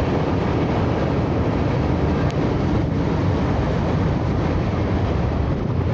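Norfolk Southern mixed manifest freight cars rolling past on the rails: a steady, loud rumble of wheels on track.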